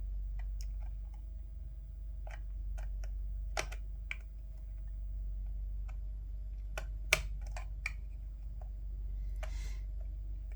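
Irregular small clicks and taps of plastic headset parts and little screws being handled, the loudest about seven seconds in, with a brief rustle near the end, over a steady low hum.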